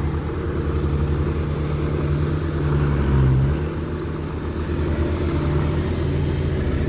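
Heavy diesel engine running steadily, swelling briefly about three seconds in and then settling back.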